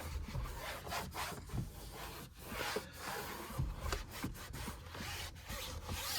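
A cleaning wipe rubbed back and forth over a car's interior door panel, in irregular scratchy strokes.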